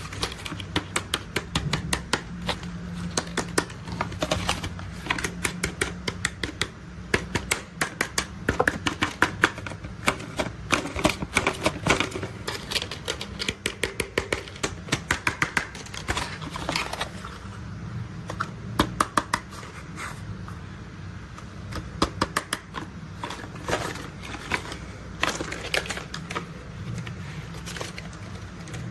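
Plastic toy construction vehicles being handled, with dense, irregular runs of quick clicks and rattles over a steady low hum.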